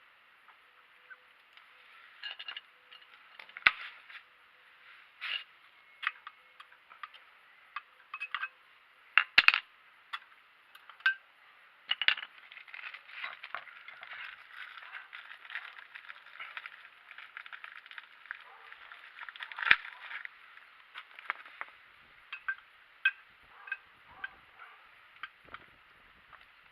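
Metal tools and brake parts clinking and knocking as they are handled during a brake disc change: irregular clicks and clinks, with a few sharper knocks and a busier stretch of rapid clicking in the middle.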